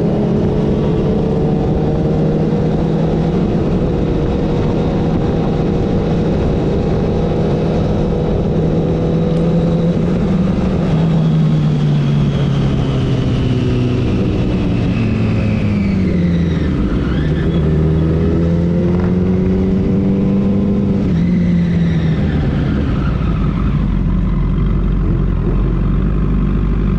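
Motorcycle engine running under way, its pitch holding steady, dropping about halfway through, then climbing again, over a steady rushing noise.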